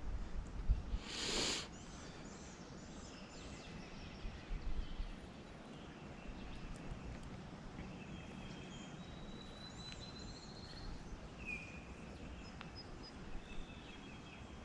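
Small birds chirping and whistling on and off over steady outdoor background noise, with a short loud hiss about a second in and a few low knocks near the start.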